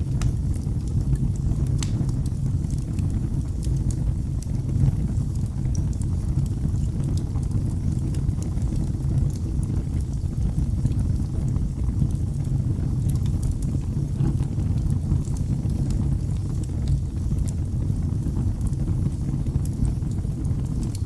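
A fireplace fire burning, with a steady low rumble of flames and scattered sharp crackles and pops, a slightly louder pop about five seconds in.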